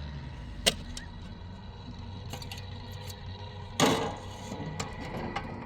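A sharp click about a second in and a louder knock about two-thirds of the way through, with a few smaller clicks, over a faint steady hum.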